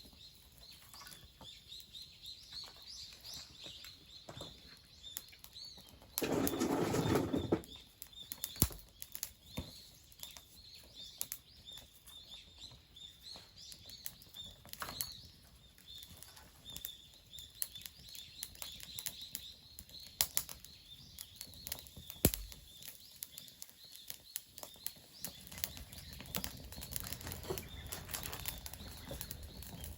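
Small wood fire being lit: scattered crackles and sharp clicks, with a loud rush of noise lasting about a second and a half around six seconds in.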